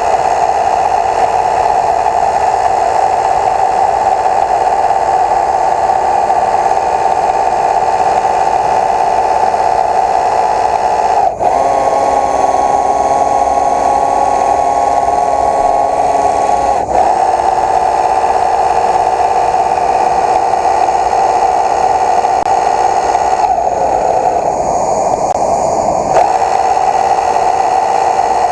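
Quadcopter drone's propellers whining steadily in a hover, a loud multi-pitched buzz that shifts pitch around halfway through and again near the end as it manoeuvres.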